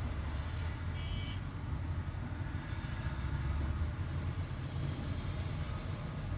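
Heavy diesel engine running steadily with a low rumble, with a brief high squeak about a second in.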